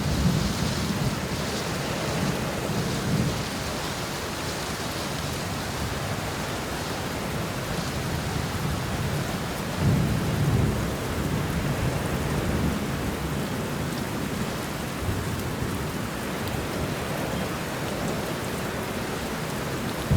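Steady heavy rain falling, with low rolls of thunder rumbling at the start and again about halfway through.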